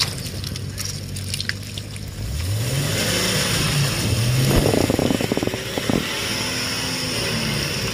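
An off-road 4x4's engine running, then revving up about two seconds in and held at high revs, with a dense rattling stretch around the middle.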